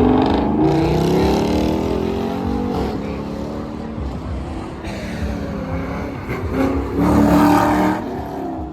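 Car engine revving as it passes, its pitch falling over the first few seconds. The engine swells louder again for about a second around seven seconds in.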